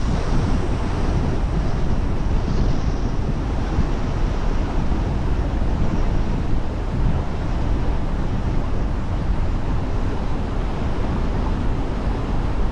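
Steady road noise of a car driving, with rumbling tyres and wind on the microphone.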